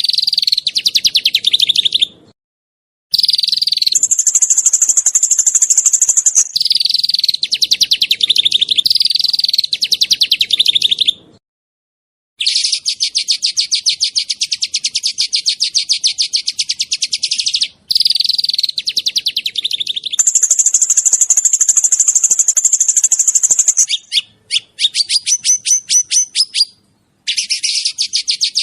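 Small songbirds singing rapid, tightly packed trills ('tembakan', the rapid bursts of song in a masteran recording), with very fast repeated high notes in runs of several seconds separated by brief pauses. Some runs sit higher in pitch than others. About three-quarters of the way through, the song breaks into separate spaced notes before a dense trill resumes.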